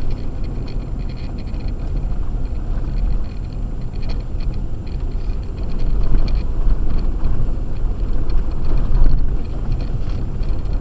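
Acura MDX driving on a snow-covered road on Sumitomo Ice Edge winter tires: steady engine and tyre noise, swelling a little around six and again nine seconds in.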